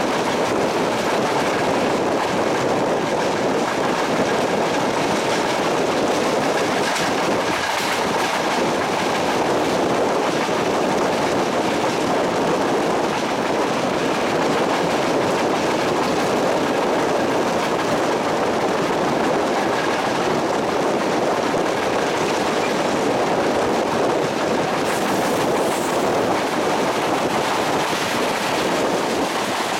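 A train running along the track, its wheels on the rails making a steady rolling noise that does not rise or fall.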